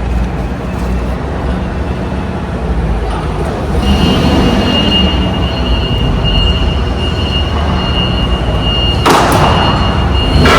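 Heavy truck running, a steady low rumble, with a steady high whine joining about four seconds in and a short hiss near the end.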